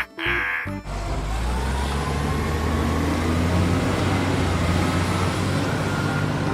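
A short high-pitched tone, then a heavy truck engine running steadily with a deep hum and a faint, slowly rising whine, dubbed on as a sound effect.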